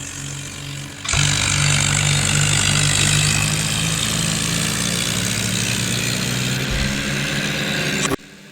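Tractor diesel engines running hard. The sound jumps louder about a second in and cuts off abruptly near the end.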